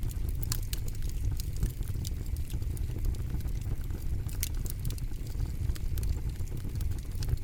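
Campfire crackling, with irregular sharp pops and snaps of burning wood over a steady low rumble of the flames.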